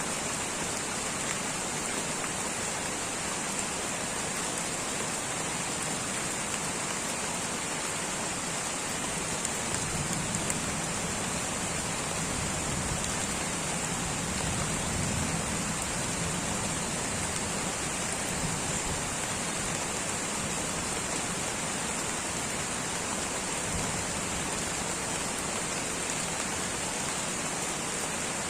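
Light rain falling steadily, with a soft low rumble swelling for several seconds about a third of the way in.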